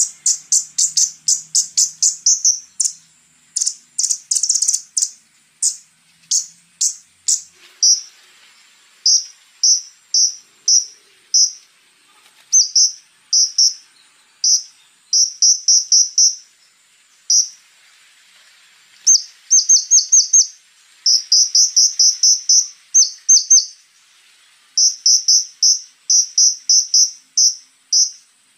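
Scarlet-backed flowerpecker (konin) calling in quick runs of sharp, very short high ticking notes, several a second, broken by brief pauses.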